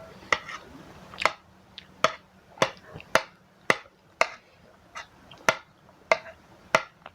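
Close-up eating sounds while eating spicy instant noodles: a regular series of sharp clicks, roughly two a second, in the rhythm of chewing.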